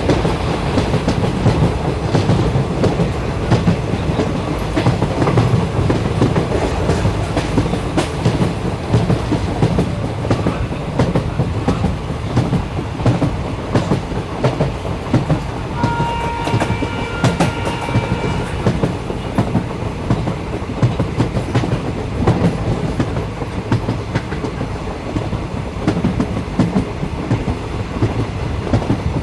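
Train running along the track: a steady low rumble with rapid clickety-clack of the wheels over rail joints. About halfway through, a brief high tone rings for about two seconds over the rumble.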